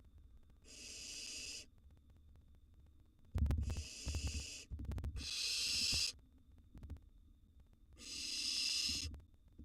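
Barn owl nestlings giving hissing begging calls, three long hisses of about a second each. A burst of knocks and scuffling in the nest box comes a few seconds in.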